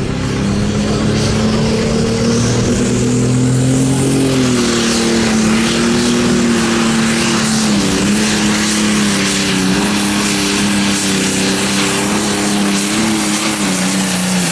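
Turbocharged diesel engine of a Light Pro Stock pulling tractor running hard at full throttle under load, holding a steady pitch with brief dips about 4 and 8 seconds in.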